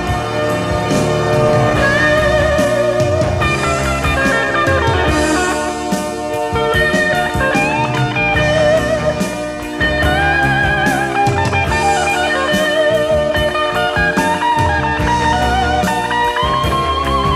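Instrumental break in a pop-rock song: a lead electric guitar solo of long, sustained notes with wide vibrato, over bass and drums.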